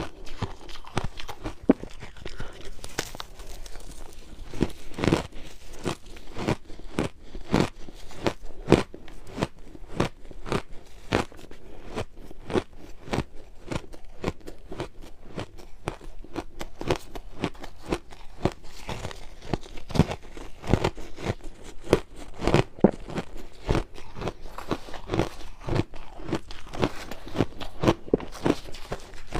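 Frozen ice being bitten and crunched in the mouth, a fast irregular string of sharp cracks and crunches.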